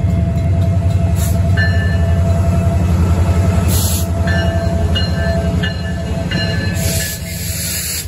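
Canadian Pacific freight train passing close by: the diesel locomotives' heavy engine rumble, with short high wheel squeals and rushes of noise as the cars roll past. The engine sound drops off about seven seconds in as the locomotives go by and the boxcars follow.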